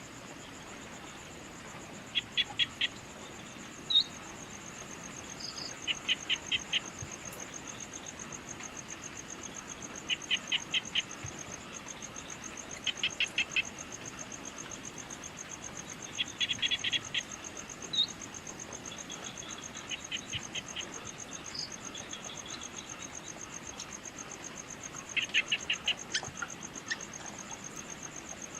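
Evening outdoor ambience: a steady high insect trill throughout, with short bursts of four or five quick clicking calls every few seconds and a few single high chirps.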